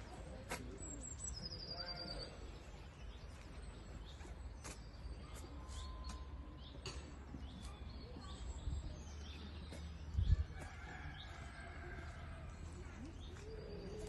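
Small aviary birds chirping, with many short high chirps and a descending trill about two seconds in. A brief low thump about ten seconds in.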